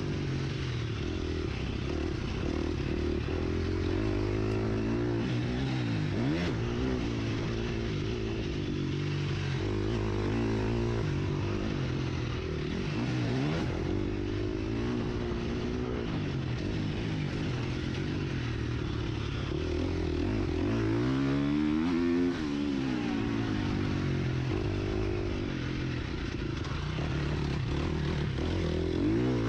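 Husqvarna FC 350 four-stroke single-cylinder motocross engine, heard close up on board, revving up and falling back over and over as the bike accelerates, shifts and backs off, over steady wind and track noise.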